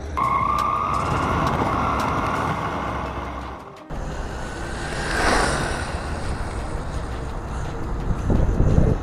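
Brushless electric motor of a Redcat Tornado EPX Pro 1/10-scale RC buggy on a 3S battery, whining at high speed, its pitch rising slowly over the first few seconds. The sound breaks off sharply just before 4 seconds in, then the car passes again about a second later, with tyre and wind rumble underneath.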